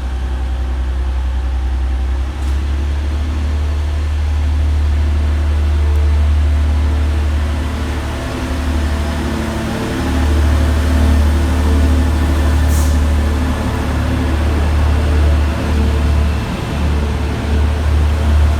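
Two coupled Class 185 diesel multiple units, each with Cummins six-cylinder diesel engines, pulling away from the platform with a steady, deep engine drone.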